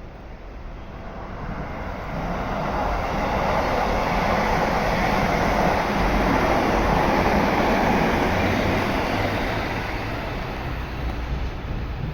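Electric commuter train running past a station platform: its rolling rush swells over a few seconds, holds, then slowly fades.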